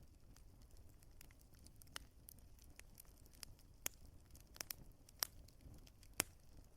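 Wood fire crackling in a fireplace: a handful of irregular sharp pops from the burning logs over a faint low rumble of the flames.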